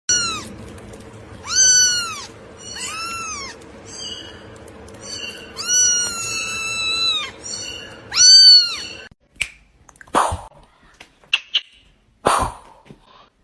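A cat meowing four times, each call rising and falling in pitch, the third one long and drawn out. After that come a few short, sharp sounds.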